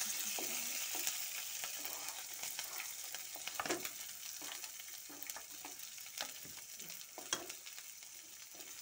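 Green chillies and mustard seeds sizzling in hot oil in a metal pan, a steady hiss with scattered crackles and clicks. Chopped ginger is tipped in a little over three and a half seconds in, with a sharp knock, and the sizzle slowly dies down.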